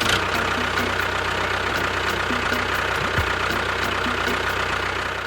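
Tractor engine idling steadily, with a light regular ticking about four times a second.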